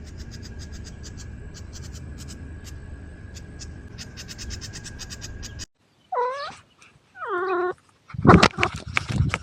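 A steady low rumble with clicking cuts off abruptly, then a cat meows twice, two short calls about a second apart, followed by a loud burst of harsh noise.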